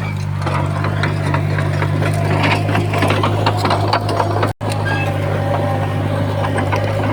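Komatsu D51PX bulldozer's diesel engine running steadily under load, with frequent clanks and knocks from its steel tracks and the stone being pushed. The sound cuts out for an instant about halfway through.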